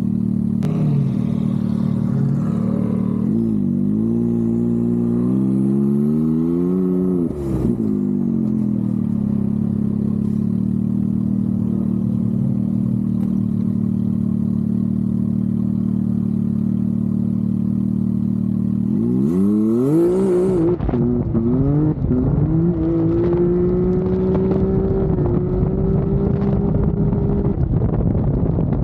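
Can-Am Maverick X3's turbocharged three-cylinder engine running steadily, revving up and back down a few seconds in. About twenty seconds in it climbs sharply and pulls hard, with a rougher, rising engine note.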